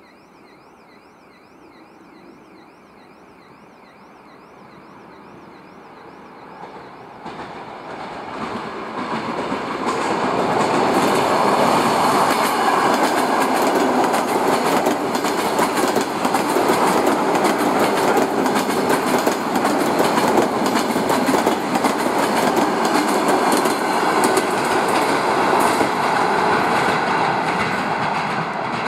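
A train drawing near and passing close by: the sound builds from about seven seconds in, then holds as a loud steady rumble with rapid clicking of wheels over rail joints.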